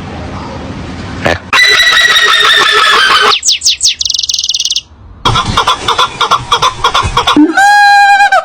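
Several different animal cries in quick succession, fowl-like: a long, loud call, then fast repeated calls, then a steady held call near the end.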